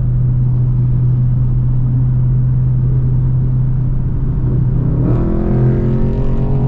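Straight-piped Dodge Scat Pack 6.4-litre HEMI V8 exhaust droning steadily at highway cruise. About five seconds in, a revving exhaust note rises on top as the car accelerates.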